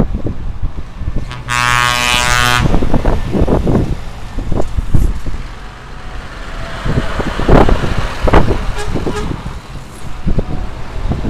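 A truck horn sounds one blast of about a second near the start, over the continuous low rumble of trucks driving past.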